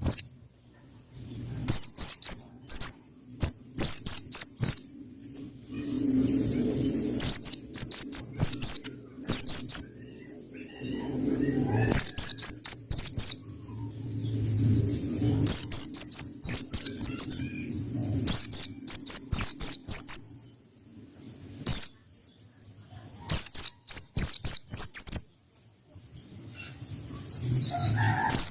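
Pleci (white-eye) songbird singing its wild-type 'ngalas' song: repeated bursts of fast, high twittering chirps, each phrase about a second long, with short pauses between.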